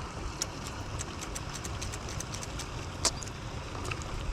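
Scattered light clicks and ticks over a steady low rumble, with one sharper, louder click about three seconds in.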